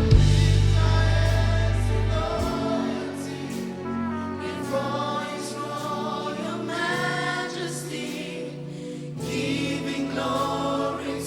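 Gospel worship chorus sung by a group of voices with band accompaniment. A held low bass chord drops out about two and a half seconds in, leaving the singing over lighter backing.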